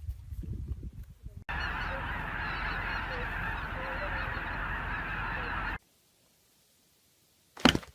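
Dense, steady clamour of many overlapping animal calls, starting about a second and a half in and cutting off abruptly about four seconds later. A brief loud sound comes near the end.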